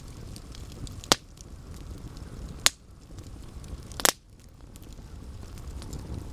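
Campfire burning with a low steady rumble and faint crackling, and three loud sharp pops from the burning wood about a second and a half apart.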